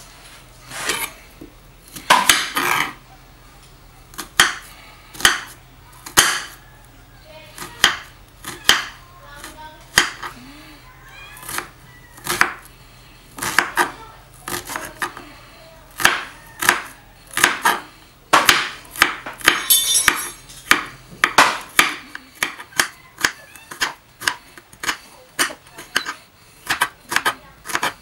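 Kitchen knife chopping red onion on a cutting board: a run of sharp knocks of the blade on the board, uneven at first, then quicker and steadier, about two to three strokes a second, in the last several seconds.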